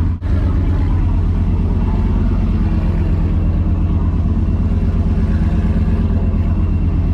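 Vehicle engine running steadily with a deep, evenly pulsing rumble, briefly dropping out just after the start.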